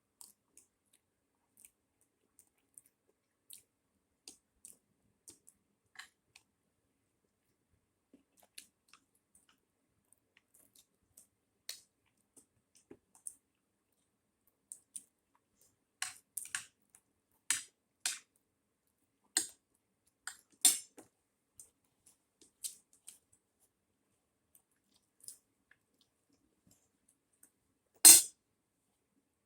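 Close-up eating sounds: scattered soft clicks and smacks of chewing, busier in the second half, with one sharp, louder click near the end.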